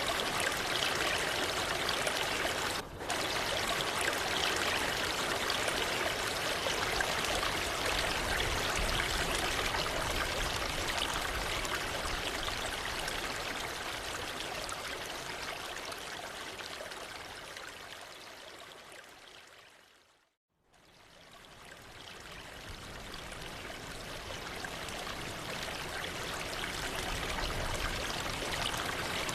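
Steady rushing of falling water from a waterfall. It briefly drops out about three seconds in, then fades down to silence about two-thirds of the way through and fades back up, like the join between two edited loops.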